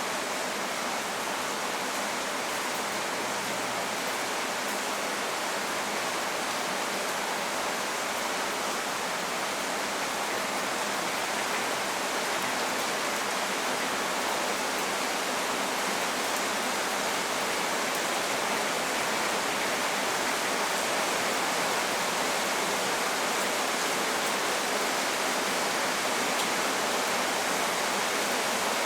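Steady rainstorm as a dense, even wash of noise, with no separate drops or thunder standing out, growing slightly louder over the stretch.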